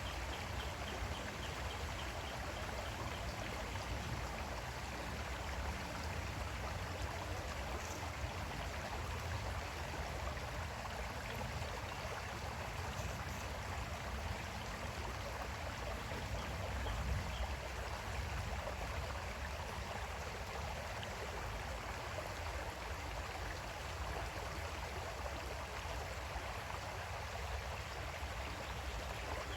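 Creek water flowing steadily over stones, an even rushing babble without pauses.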